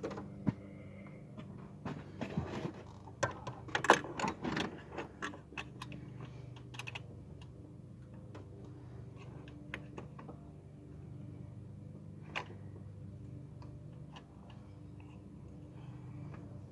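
Small metal clicks and knocks as a turbo wastegate actuator and its mounting plate are handled and test-fitted in an engine bay, a quick cluster of them in the first few seconds and a single sharp click later on, over a steady low hum.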